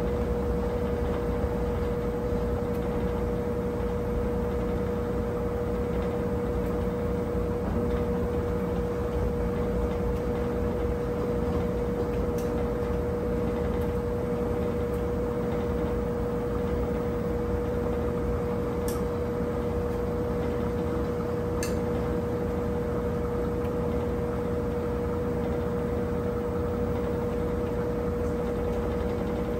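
Brastemp 17 kg washing machine running steadily with a constant high-pitched hum over a low drone, with a few faint clicks.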